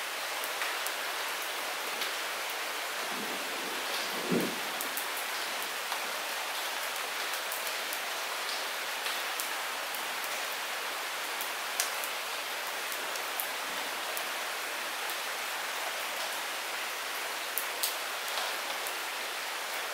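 Light rain falling steadily, with scattered single drops ticking close by and one soft low thud about four seconds in.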